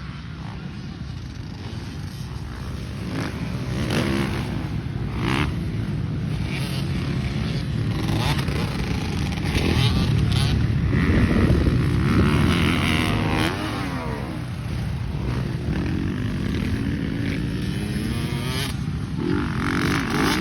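Motocross dirt bike engine revving up and down repeatedly as the rider works the throttle. It grows louder toward the middle, then eases off slightly.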